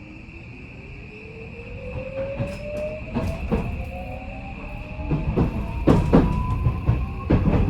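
Traction motors of an Odakyu 5000-series train, driven by Mitsubishi full-SiC VVVF inverters, whining steadily upward in pitch as the train accelerates, over a steady high hum. From about three seconds in the wheels knock sharply over rail joints, and the running grows louder.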